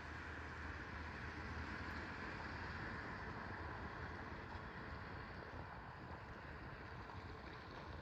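Faint steady outdoor rumble and hiss, with no distinct events.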